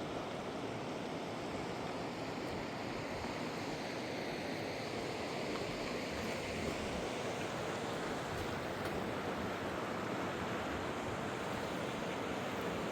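Steady rush of a fast river, even and unbroken, with a couple of faint clicks in the middle.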